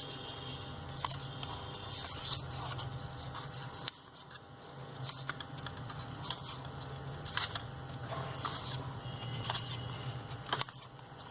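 Paper strips being handled and folded, with scattered rustles, scrapes and small clicks over a faint steady low hum.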